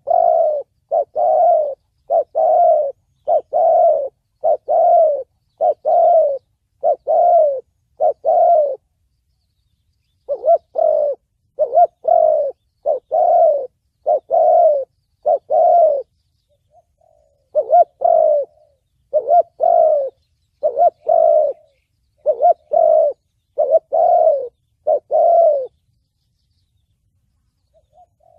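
Spotted dove cooing in the 'thổ bầu' voice, its call repeated in three bouts of low coos with short pauses between them, a lure call used to draw in wild doves.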